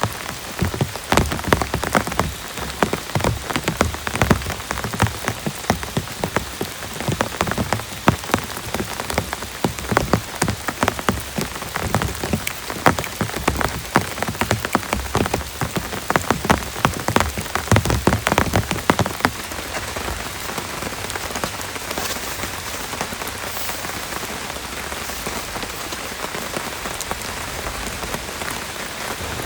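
Heavy rain, with many close, sharp drop impacts for the first twenty seconds or so, then settling into a steadier, even hiss.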